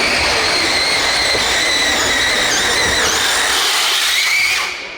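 Radio-controlled pulling vehicle's motor and drivetrain whining under load during a pull: a loud, high, steady whine that dips slightly in pitch and cuts off about four and a half seconds in as the run ends.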